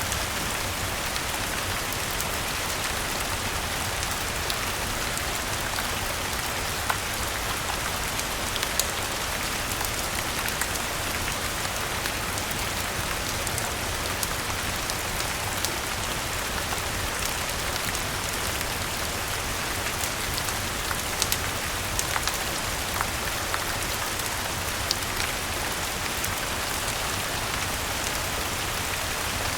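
Steady rain falling, an even hiss of drops, with scattered sharp pops from a crackling wood fire mixed in.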